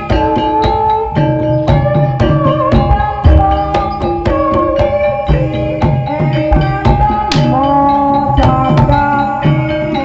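Live gamelan music of the kind that accompanies an ebeg (jaran kepang) dance: struck keyed instruments play a ringing melody over busy hand drumming.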